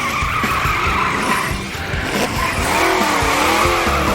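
Cartoon vehicle sound effects: an engine revving with rising and falling pitch and tyres skidding, the skid strongest in the first half.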